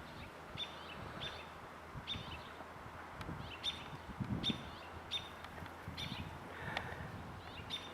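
A bird repeating a short, high chirp over and over, about every half second.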